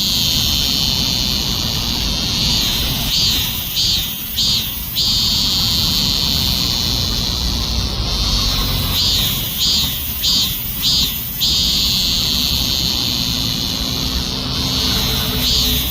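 Cicada singing: a long, steady high-pitched buzz that breaks into a run of three or four short, separate phrases, then resumes the buzz, the cycle repeating every several seconds.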